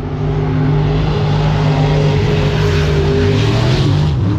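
Mega truck engine running hard at high revs, its pitch held steady and dipping slightly near the end.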